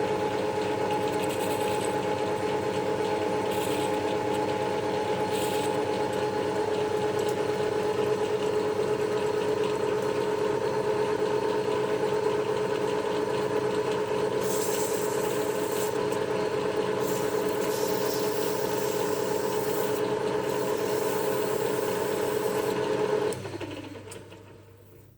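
A shop machine tool running with a steady hum, with bursts of hissing cutting noise now and then. Near the end it is switched off and the motor winds down to quiet.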